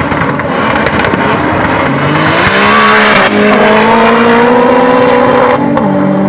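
Two turbocharged drag cars, a tuned Audi TT 3.6 VR6 turbo and an Opel Corsa 2.0 turbo, accelerating hard down the strip. The engine pitch climbs, breaks about halfway through as a gear changes, climbs again, and falls off sharply near the end.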